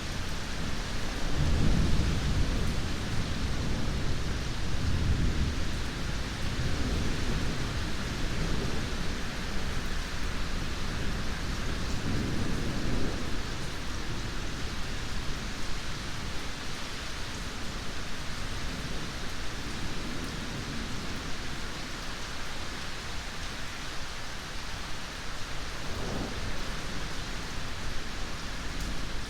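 Steady heavy rain with rolling thunder: low rumbles swell about two seconds in, around five seconds and near thirteen seconds, then rain alone with a faint last rumble near the end.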